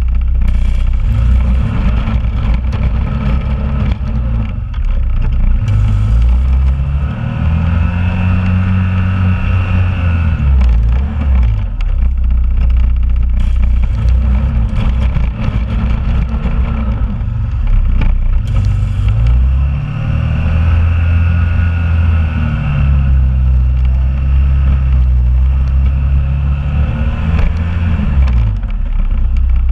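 2001 Honda Rubicon ATV's engine running while plowing snow, its pitch rising and falling several times as it speeds up and slows down.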